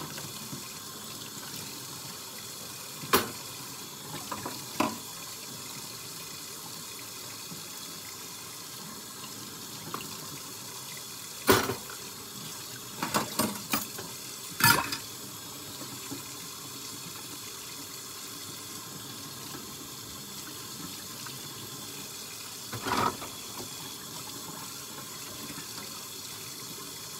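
Kitchen tap running steadily into a sink during hand dish-washing, with scattered clinks and knocks of dishes, a quick cluster of them about halfway through.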